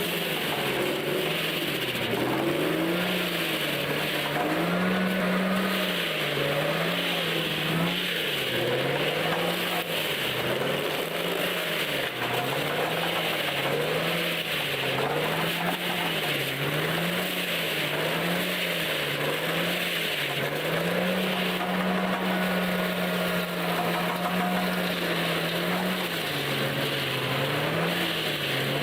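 A heavy machine's engine running under load, its pitch rising and falling in an even rhythm about once a second, with two stretches where it holds steady at the higher pitch.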